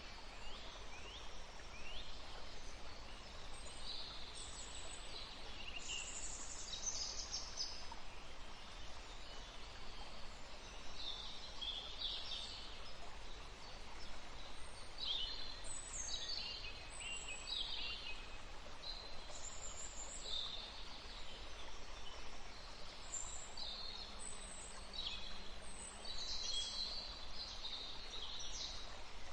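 Several small birds chirping and singing in short, high calls and trills, overlapping through the whole stretch, over steady background noise.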